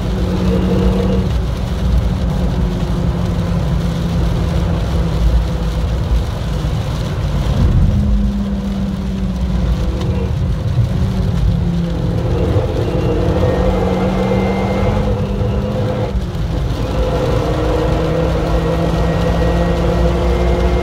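Renault Mégane's engine heard from inside the cabin, pulling at fairly steady revs, with brief lifts and pick-ups about eight seconds in and again around twelve and sixteen seconds. Underneath is a steady hiss of rain and tyre spray on the wet track.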